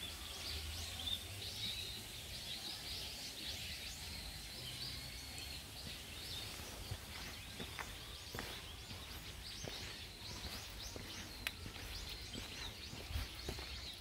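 Small birds chirping and calling, with one drawn-out high call in the first few seconds, over a steady low outdoor background. A few faint clicks come in the second half.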